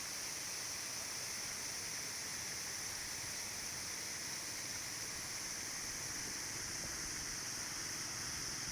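Steady hiss of water falling from an artificial rock waterfall into a pond.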